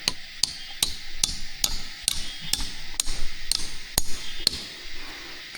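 Steady hammering: about a dozen sharp knocks, evenly paced at roughly two to three a second, ending about a second before the end.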